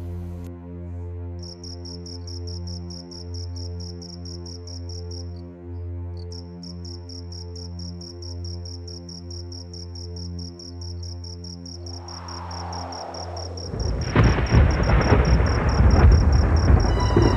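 Crickets chirping in a rapid, even pulse over a low, steady music drone. Near the end a loud rumble of thunder swells in and drowns out the drone.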